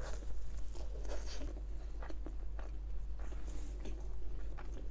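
Biting into and chewing a mouthful of naan bread topped with paneer tikka masala: irregular soft chewing with many small mouth clicks.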